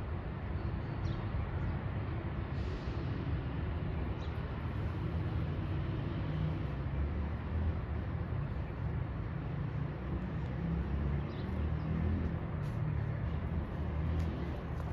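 Outdoor city ambience: a steady low rumble of traffic, with a few faint ticks and clicks.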